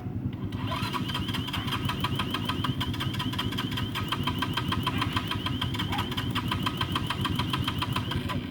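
Dirt bike engine being turned over, a fast even metallic ticking, about eight a second, that starts about a second in and cuts off suddenly near the end. Under it runs a steady low engine rumble.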